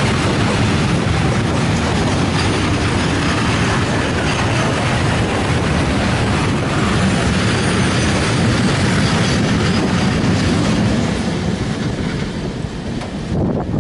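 Madgaon Rajdhani Express passenger train running at speed, its wheels giving a steady rolling noise on the rails. The noise drops away somewhat in the last couple of seconds.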